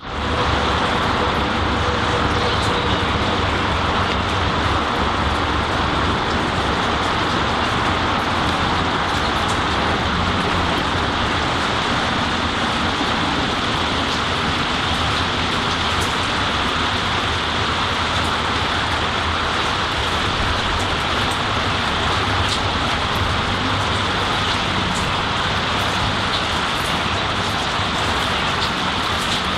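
Steady rainfall on leafy trees and a garden, a constant even hiss with scattered sharper drops striking close by, over a low steady rumble.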